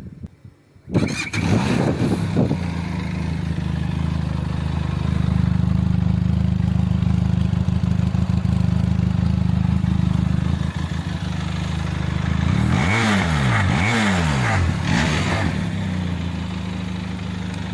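Benelli TRK 502X twin-cylinder motorcycle engine and exhaust, starting up about a second in and idling steadily. About thirteen seconds in it is revved twice, the pitch rising and falling each time, then it drops back to idle.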